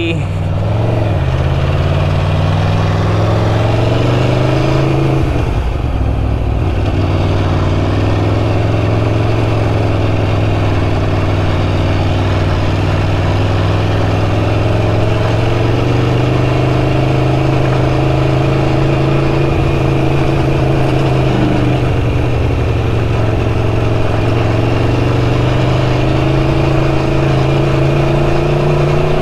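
Car engine pulling steadily up a rough hill road, its pitch slowly rising and falling with the throttle.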